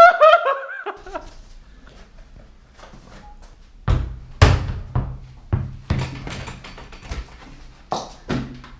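A string of irregular knocks and thumps, starting about four seconds in, over a low hum.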